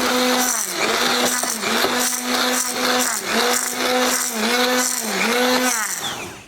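Electric mixer running in a bowl of batter with a steady hum. Its pitch sags briefly several times as the beaters drag through the mix. It switches off near the end.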